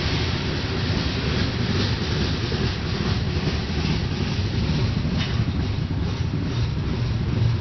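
Covered hopper cars of a freight grain train rolling past close by: a steady rumble of steel wheels on the rails, with a few faint clicks as wheels cross rail joints.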